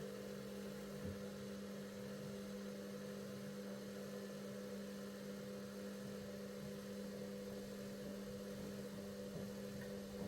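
Bauknecht front-loading washing machine humming steadily during its steam self-clean program, a low even machine hum that stops just after the end.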